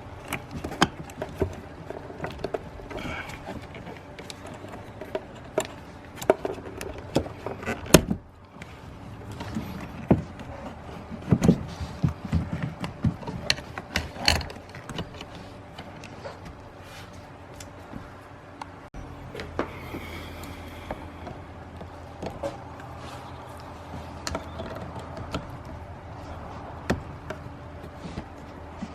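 Scattered clicks, knocks and rattles of hands working at a car battery with charger clamps and tools, over a steady low hum.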